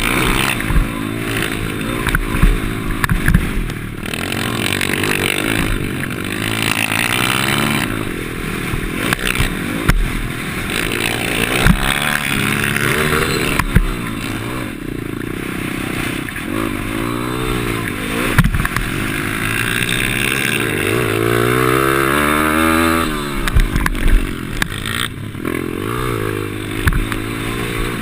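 Pit bike engine revving up and falling back again and again as it is ridden hard through the gears, with sharp knocks and rattles scattered throughout.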